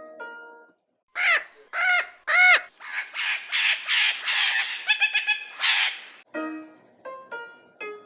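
Parrot squawking: three short arched calls, then a run of harsh, raspy screeches lasting about three seconds.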